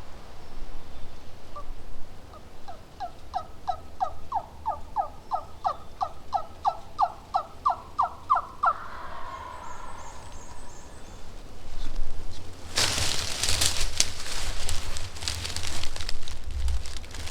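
A long series of turkey yelps: about seventeen falling notes at roughly three a second. About thirteen seconds in, a louder, rough rattling noise follows and runs on.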